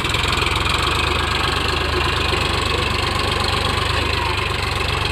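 Eicher 551 tractor's diesel engine running hard at steady speed, with an even low chugging pulse. It drops back sharply to a quieter level just after the end.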